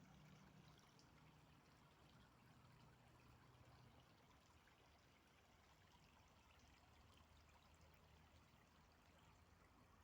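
Faint, steady running water, like a small forest stream trickling.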